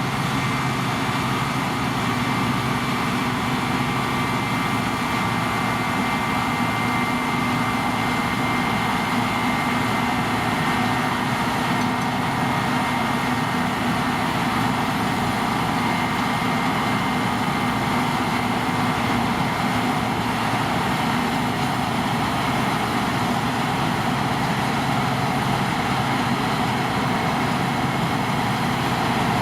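Deutz-Fahr C9306 CS combine harvester running steadily while harvesting spring barley: a constant engine and machinery drone with several steady high tones over it.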